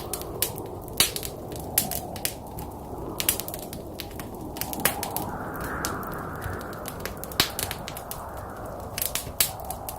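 Wood fire burning in a fireplace: a steady low rush of flames with irregular sharp pops and crackles.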